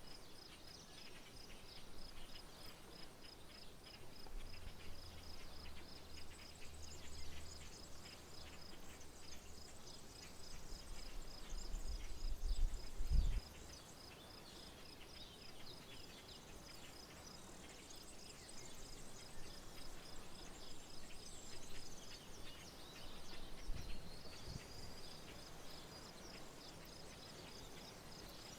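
An insect trills steadily in high, evenly spaced pulses, with scattered bird chirps around it. A low rumble starts about four seconds in, grows louder, and cuts off suddenly about thirteen seconds in.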